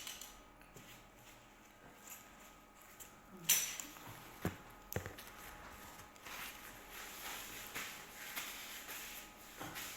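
Quiet eating and table-handling noises: scattered small clicks and rustles, with a louder brief rustle about three and a half seconds in and two sharp clicks soon after.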